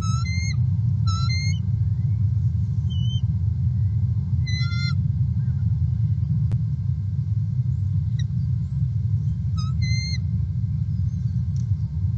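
A bird calling in four short bursts of quick, ringing notes, each about half a second long. Under them runs a steady low rumble.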